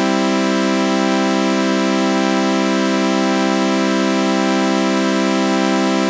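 A sustained synthesizer chord of sawtooth waves with a flanger effect, held steady without a break, with a slight slow wavering in its upper tones.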